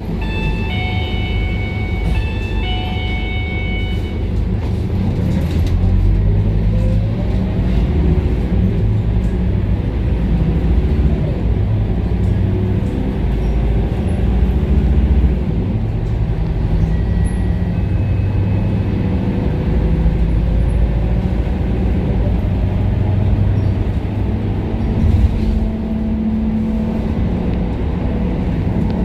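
Interior sound of a Scania K230UB city bus under way: its diesel engine and automatic gearbox run steadily, with the pitch rising and falling as the bus accelerates and shifts gears. A short run of electronic beeps sounds in the first few seconds.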